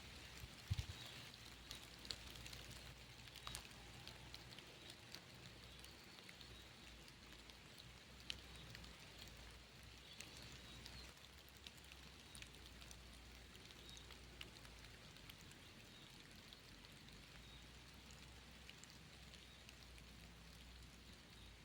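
Faint rain, with scattered drops ticking irregularly on a surface.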